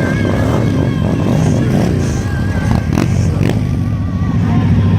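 Motorcycle engines running, a steady low rumble, with a thin wavering tone above it and a couple of sharp clicks about three seconds in.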